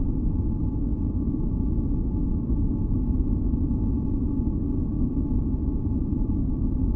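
Steady deep noise with most of its weight in the low end, a masking-noise track for sleep and tinnitus relief. A few faint held tones sit above it, unchanging.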